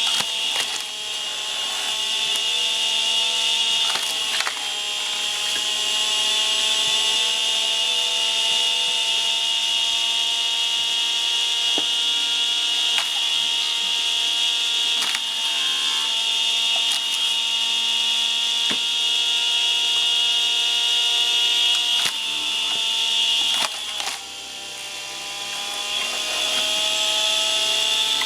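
Screw-cone log splitter driven by a 600 W washing-machine motor, running with a steady high whine while it splits birch firewood. The motor's pitch sags a few times as the screw bites into a log and loads it, then climbs back, with scattered sharp cracks as the wood splits.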